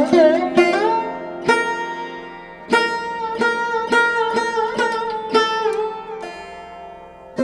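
Instrumental music: a plucked string instrument plays single notes, with pitch slides on some of them, over a steady drone.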